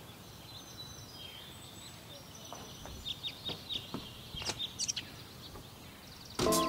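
Faint outdoor background with scattered small bird chirps, a cluster of short high calls about three to five seconds in. Music starts loudly just before the end.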